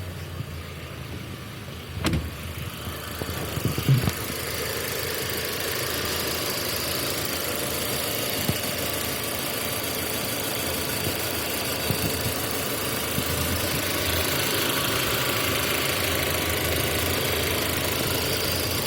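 Volkswagen Passat B5 engine running warm at idle, with the knock that appears once the engine is warmed up. There are a couple of sharp thumps about two and four seconds in; after them the engine runs steadily and a little louder.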